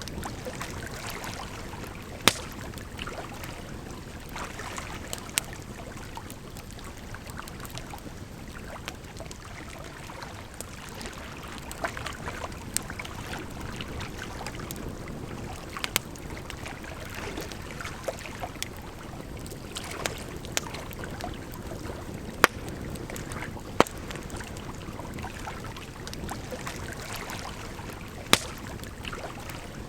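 Campfire crackling, with sharp irregular pops every second or two, over a steady rush of running water.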